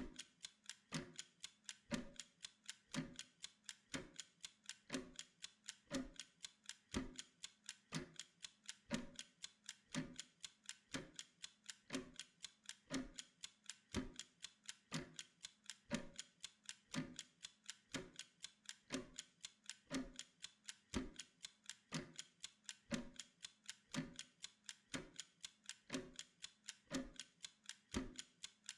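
Mechanical pomodoro kitchen timer ticking steadily as it counts down. Fast ticks come at about four or five a second, with a heavier tick once each second.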